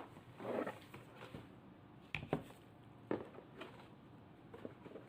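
Cardboard box and packaging being handled during unboxing: a soft rustle, then several light knocks and clicks.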